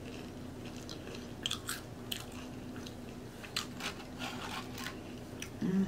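Close-up mouth sounds of chewing nachos: tortilla chips crunching in scattered bites with wet chewing between them. A brief low hum comes near the end.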